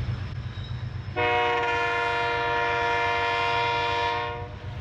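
Train's air horn sounding one long, steady blast of several notes at once, starting about a second in and lasting about three and a half seconds, over a low rumble.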